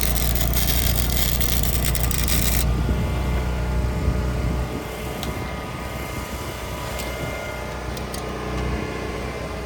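Welding arc crackling steadily, then cutting off abruptly about two and a half seconds in, over a steady low hum that drops away a little before halfway.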